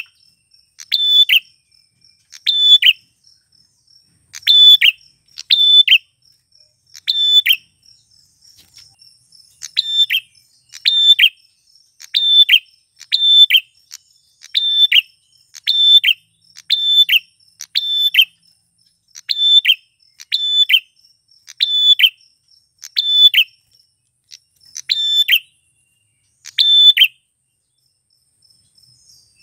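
Male prenjak klawu, a prinia, giving loud, sharp calls over and over, mostly in quick pairs spaced about a second apart, with a short pause near the end. A faint, even, high pulsing trill runs underneath.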